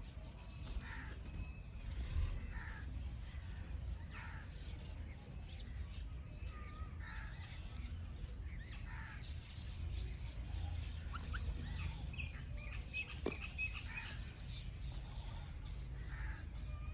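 Several birds calling, many short calls and chirps overlapping at irregular intervals, over a steady low rumble.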